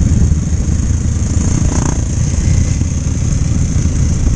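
Motorcycle engine running steadily while riding, with a heavy low rumble of wind on the microphone.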